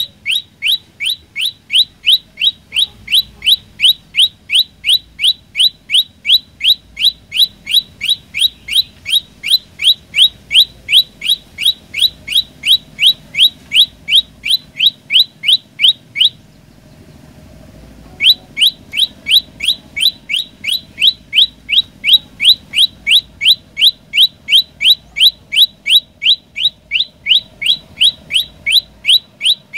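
Prenjak lumut bird calling: a fast, even train of short, sharp rising chips, about three or four a second, with a brief break a little past the middle before the series resumes.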